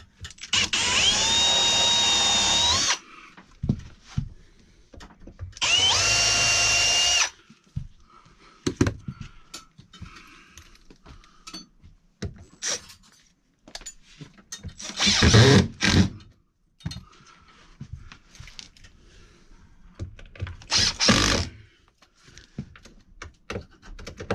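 Power drill pre-drilling pilot holes for mounting screws: two runs near the start, each whining up to speed and then holding steady, the first about two and a half seconds long. Scattered clicks and knocks follow, with two shorter, louder bursts later on.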